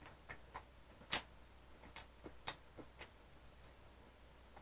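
Faint, irregular clicks and smacks of a person chewing a mouthful of hamburger, about ten over a few seconds.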